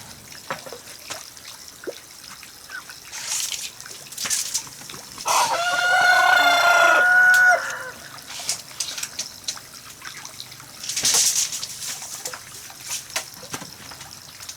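A rooster crows once about five seconds in, a single drawn-out call of about two and a half seconds. Scattered light taps and a few brief hissing noises sound around it.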